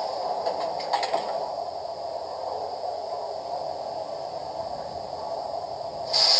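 Model train locomotive's onboard sound system playing a steady standing-engine hiss through its small speaker, with a few light clicks about a second in and a short louder burst of hiss near the end.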